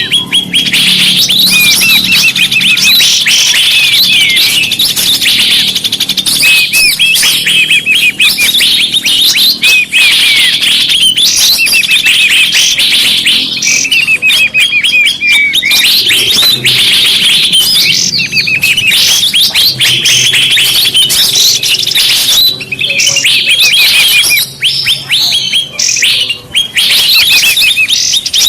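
Bird-trapping lure recording: a dense, unbroken chorus of small birds chirping and twittering, with many short, high-pitched calls and quick rising and falling sweeps overlapping throughout, played loud.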